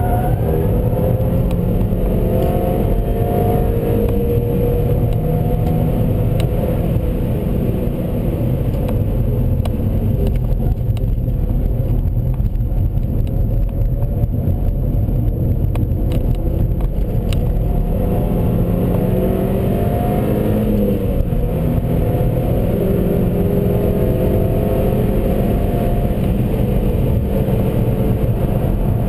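Seat Leon Cupra's 2.0-litre turbocharged four-cylinder engine pulling hard at speed under heavy road and wind rumble. The engine note rises and falls through the gears, dropping about two-thirds of the way through before climbing again.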